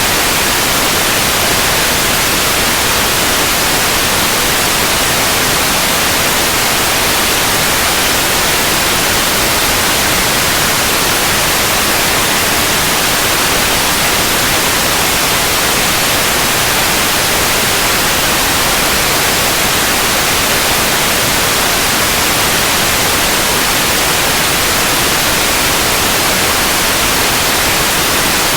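Steady white noise: an even, unchanging hiss spread across all pitches, strongest in the highs.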